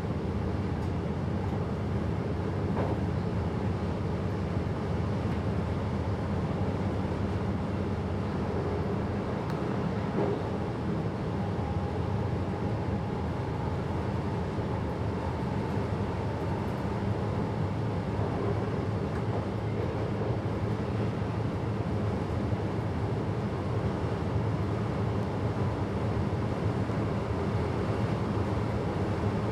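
Passenger train running steadily along the line, heard inside the driver's cab as a continuous low rumble of wheels and running gear, with a faint whine in the middle.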